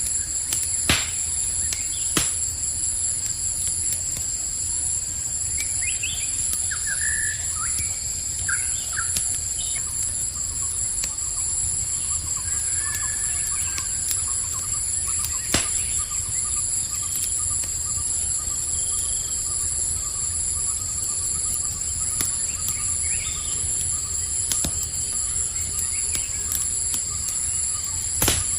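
Campfire crackling with a few sharp pops under a steady, high cricket chorus. A handful of short bird chirps come in about a quarter of the way through.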